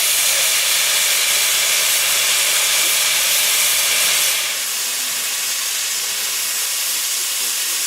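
Steam locomotive hissing as it vents steam, a steady loud hiss that eases a little about four and a half seconds in.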